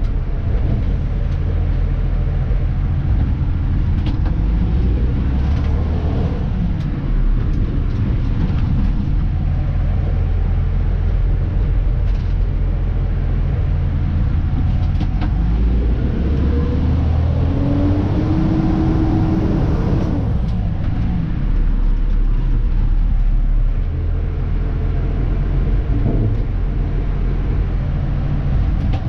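Dennis Elite 2 refuse truck's diesel engine running as heard inside the cab, its pitch stepping up and down several times. Occasional clicks and rattles are heard, and a rising whine comes in and stops about two-thirds of the way through.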